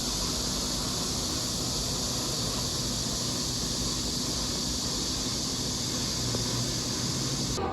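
A steady hiss that cuts off suddenly near the end.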